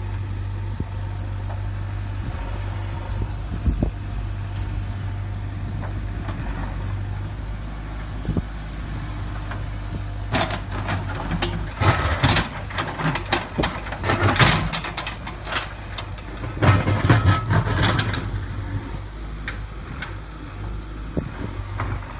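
Diesel engine of a JCB 3DX backhoe loader running steadily under the work. About ten seconds in, a run of clanks and knocks sets in and lasts about nine seconds.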